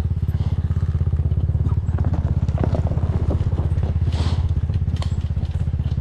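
Enduro motorcycle engine running at low, steady revs, with scattered clicks and rattles over it.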